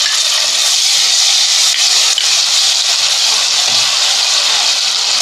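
Garlic-ginger and green chilli paste sizzling in hot oil as a metal ladle stirs it in an aluminium pot: a loud, steady hiss.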